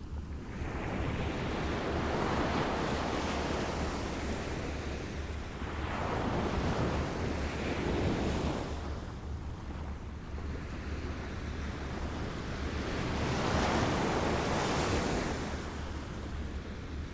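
Small waves lapping against the shore, washing in and out in slow swells, each one rising and falling over a few seconds.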